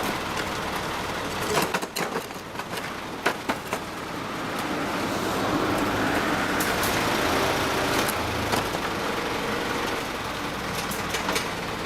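A motor vehicle's engine running, swelling in level about halfway through as it passes, with a few sharp knocks in the first few seconds.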